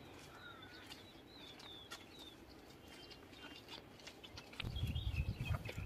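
Faint bird chirps, a few short high calls. About four and a half seconds in, a low rumble sets in.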